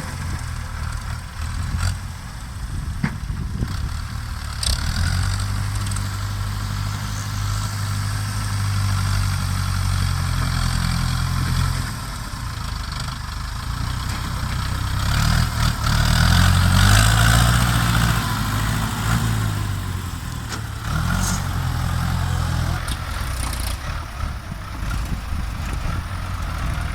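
Ford New Holland farm tractors' diesel engines running while working, with the engine note rising under load about halfway through and then settling back, and a few clanks.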